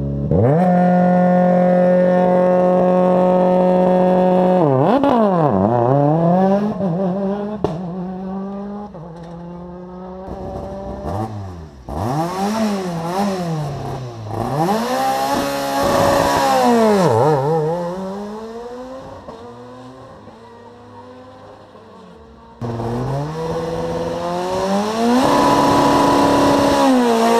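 Rally car engine held at high revs, then blipped up and down repeatedly before pulling away from the start and fading into the distance. A little before the end, another rally car's engine comes in loud, held high and revved.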